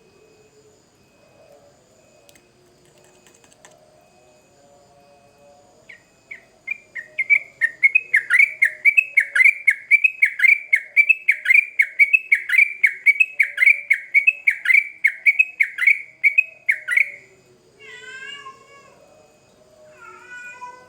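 Yellow-vented bulbul (trucukan) singing. After a quiet start it gives a long, fast run of repeated down-slurred whistled notes, about three a second, for roughly ten seconds. Two short, harsher falling calls follow near the end.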